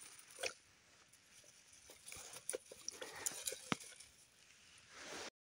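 Faint crunching of freshly made popcorn being chewed: scattered small irregular crunches that cut off suddenly near the end.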